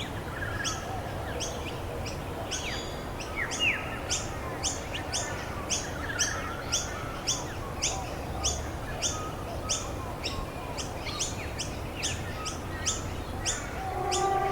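Birds singing: one bird repeats a short, high chirp about twice a second while others call more softly and lower, over a steady hiss of rain.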